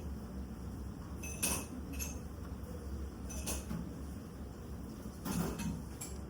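Dishes and cutlery clinking against tableware at a meal: a few separate sharp clinks with a short ring, over a steady low room hum.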